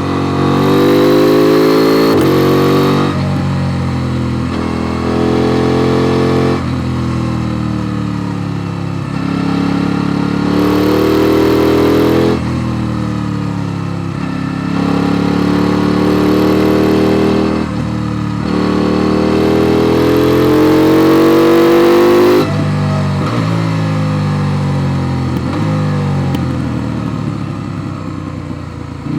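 KTM Duke 890 R's parallel-twin engine, heard from on board, pulling through about five accelerations, each rising in pitch and cut off sharply by a shift or a roll-off of the throttle. About three quarters of the way in, the revs fall away in a long deceleration on the overrun, turning ragged near the end.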